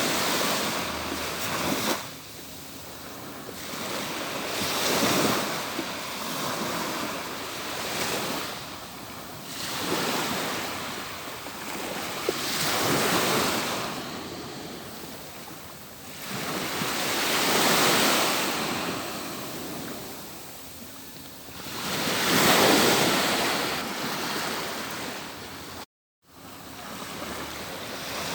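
Atlantic Ocean surf breaking on a beach. Each wave swells up and washes out in turn, about six in all, one every four to five seconds. A split-second gap in the sound comes near the end.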